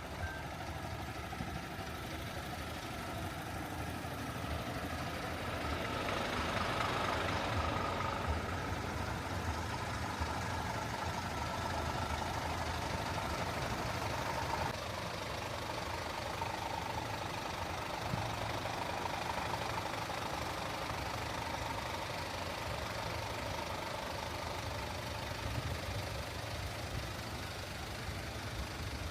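Scania P410 truck's diesel engine idling steadily. It grows a little louder about six seconds in and eases back around fifteen seconds in.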